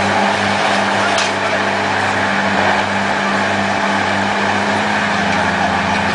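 Heavy truck engine running steadily with a constant low hum.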